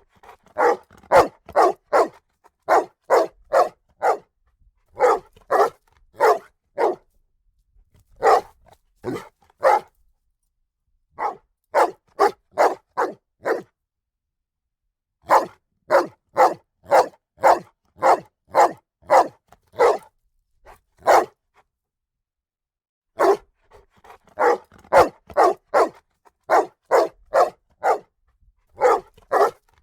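A dog barking repeatedly in rapid bouts of several barks, about two a second, with short pauses between bouts.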